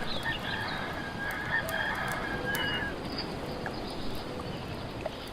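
A rooster crowing once, one long call starting about a second in, over a steady hiss with faint fire crackles. A few short bird chirps come near the start.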